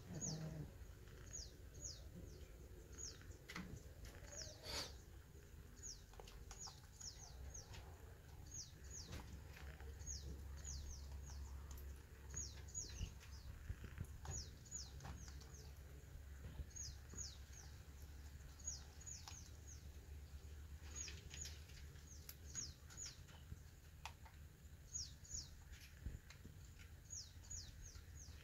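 Small birds chirping: short, high chirps that fall in pitch, repeating in quick clusters of two to four, over a faint low rumble.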